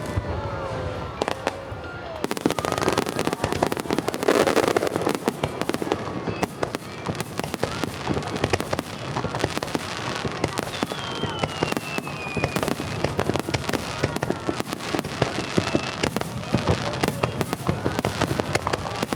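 Aerial fireworks shells bursting in rapid, dense succession with crackling, and a falling whistle about eleven seconds in, over music playing with the show.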